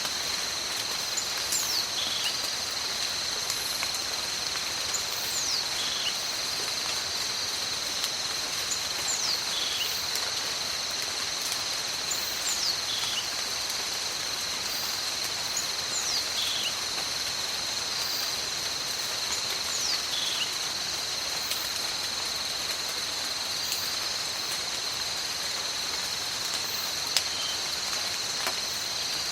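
Steady tropical forest rain hissing, with a constant high insect drone over it. A bird repeats a short whistle that slides down in pitch, about every three and a half seconds.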